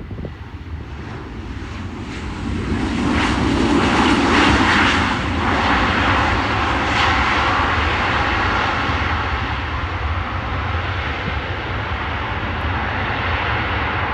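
Airplane engines roaring as an aircraft passes close. The sound builds to a peak about four seconds in, then holds as a steady roar that slowly eases.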